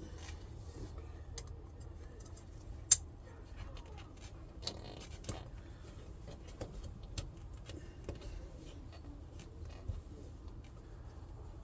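Scattered small clicks and rustles of hand work with parts and tools, with one sharp, loud click about three seconds in.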